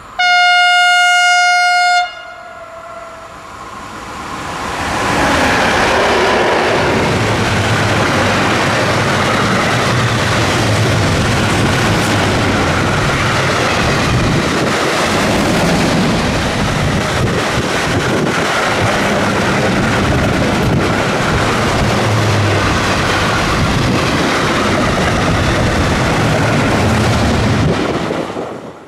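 A train horn sounds one steady blast of about two seconds as the train approaches, then a freight train of loaded car-carrier wagons passes at speed, its wheels running loudly over the rails for over twenty seconds before the sound falls away near the end.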